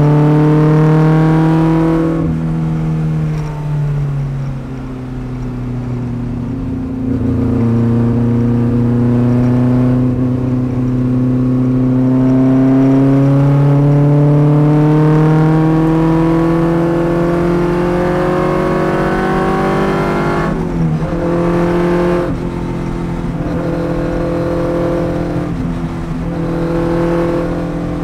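Fiat Abarth 1000's small four-cylinder racing engine heard from inside the car under hard driving on track. The revs climb steadily for long stretches and fall sharply about two seconds in and again around twenty seconds, as at gear changes. Near the end the revs step quickly up and down.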